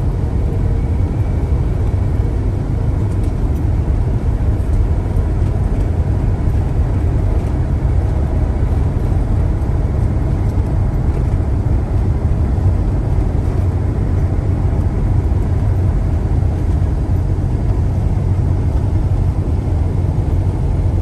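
Steady low rumble of an RV's engine and tyres on the road while driving at a constant pace.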